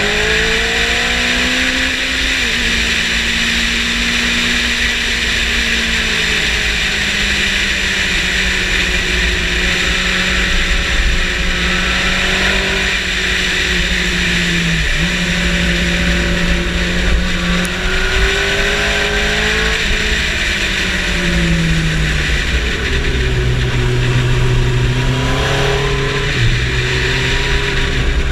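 Yamaha motorcycle engine at track speed, its pitch climbing and falling repeatedly as it accelerates, shifts and slows for corners, then settling lower for a stretch near the end. A steady rushing noise runs underneath.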